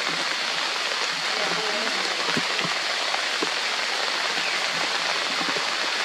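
Hard rain falling steadily on forest foliage: an even hiss with a few sharper taps of nearby drops.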